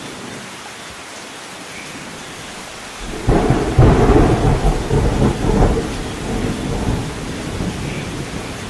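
Steady rain with a thunderclap about three seconds in: a sudden crack that rolls into a rumble, then fades back under the rain.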